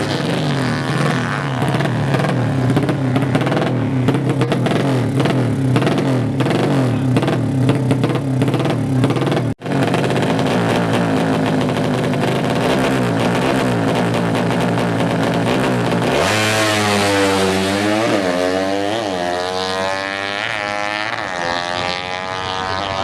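Four-stroke 200cc underbone drag bike engines running hard at high revs. The sound drops out for a split second about ten seconds in. In the last third the engine is revved up and down repeatedly, its pitch swinging.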